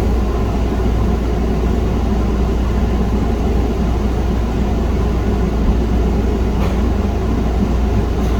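Steady low hum and hiss of room background noise, unchanging throughout, with one faint click about two-thirds of the way through.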